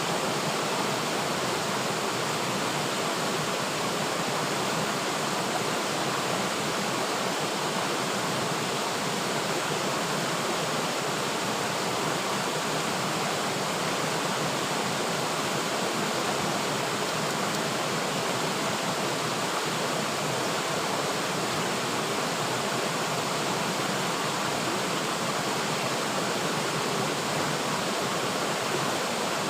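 River water flowing steadily over rocks, an even rushing noise with no change.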